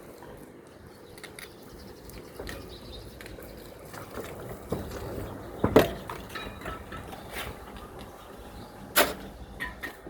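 Steady background noise with scattered knocks and clatters, two louder sharp knocks about six and nine seconds in.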